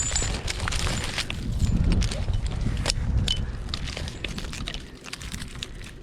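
Wind buffeting the microphone as a low rumble that eases off near the end, with scattered clicks and knocks throughout.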